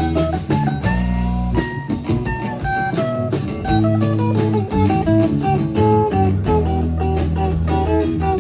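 Live band playing a blues tune: guitar picking quick single notes over a steady bass line and drums, with a note bent upward about a second in.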